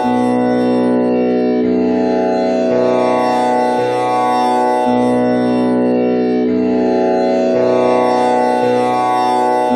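Tanpura drone in B, tuned with komal Ni (the flat seventh) in place of Pa. Its four strings are plucked in turn, a new pluck about every second and the cycle repeating roughly every five seconds, over a steady, unbroken drone.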